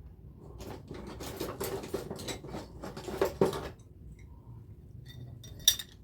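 Clattering of small hard objects being handled, a quick run of knocks and clicks for about three seconds, then a single sharp click near the end.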